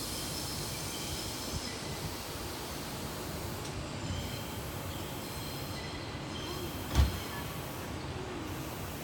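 Distant train running on the tracks, a steady rumble with faint high wheel squeals coming and going. One short thump comes about seven seconds in.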